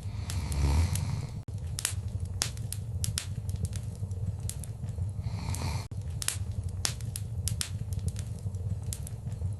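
Wood fire crackling in a fireplace: irregular sharp pops and snaps over a steady low rumble of the flames, with two brief swells of hiss, one about a second in and one just past the middle.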